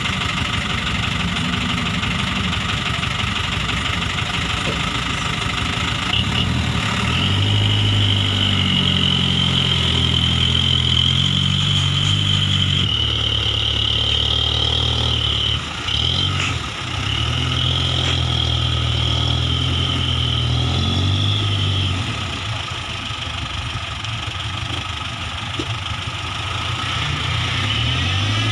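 Truck engine running under way, its pitch rising and dropping several times as it revs and changes gear, with a short break in the sound partway through. A steady high whine rides over the engine for much of the time.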